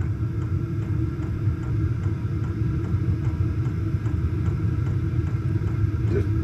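Steady low rumble of a running diesel air heater, with faint regular ticking about two to three times a second, typical of its fuel dosing pump.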